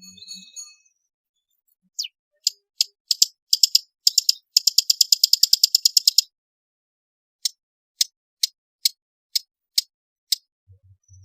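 Long-tailed shrike calling: sharp, high notes that quicken into a rapid chattering trill, then a run of single sharp notes about half a second apart.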